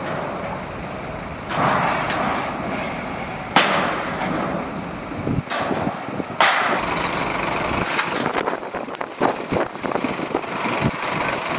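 Strong gusting wind, surging suddenly a few times and buffeting the microphone with crackling rumble.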